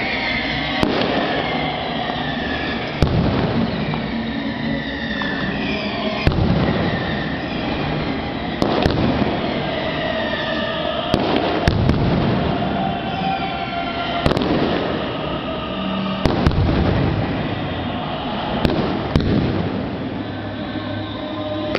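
Fireworks going off: a dozen or so sharp bangs, a second or two apart, with falling whistling tones between them over a continuous din of bursts.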